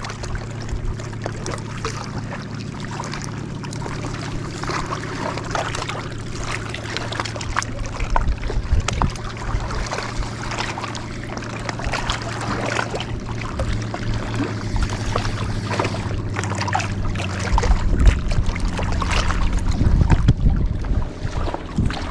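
A motor hums steadily at a low, even pitch, with many small clicks and knocks on top. Low rumbling grows louder about eighteen seconds in.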